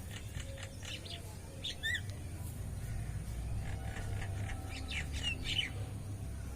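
Birds chirping: short, sharp high calls in a few clusters, over a steady low background hum.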